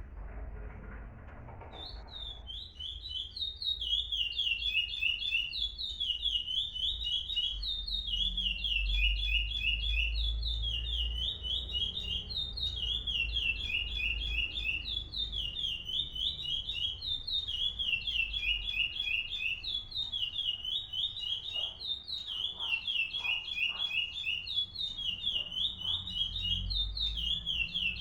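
A songbird singing its song in repeated phrases of rapid high notes, one phrase after another with short breaks, starting about two seconds in.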